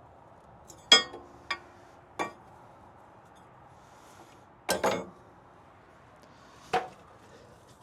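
Sharp metal-on-metal clanks and clinks, about six in all, from steel truck parts and tools being handled. The first, about a second in, is the loudest and rings briefly. A quick double knock comes near the middle and a single one near the end.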